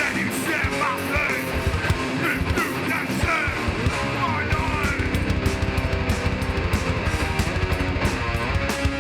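Hardcore metal band playing live, with loud distorted electric guitars over fast drums.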